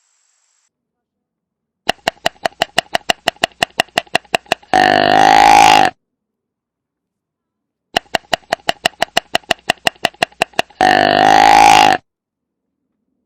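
An animal call, given twice in the same way: a quick run of pulses, about six a second, then a longer pitched call about a second long.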